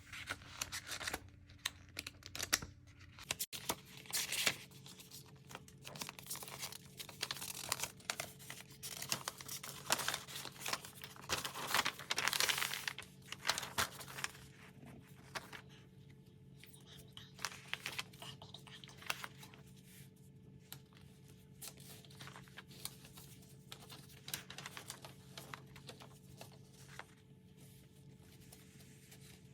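Tangram puzzle pieces being handled: clicks and taps as pieces are picked up, set down and slid into place, with a dense stretch of rustling and crinkling in the middle that thins to scattered clicks later, over a faint steady hum.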